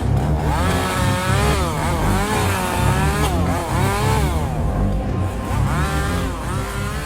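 A chainsaw revving up and down again and again, its pitch rising and falling in long sweeps, over background music with a heavy bass beat.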